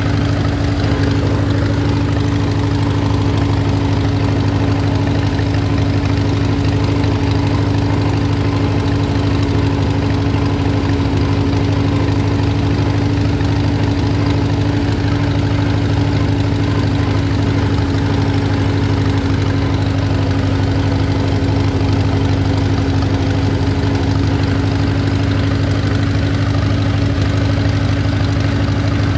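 Allis-Chalmers WD tractor's four-cylinder engine running at a steady speed as the tractor drives along, a constant, even drone.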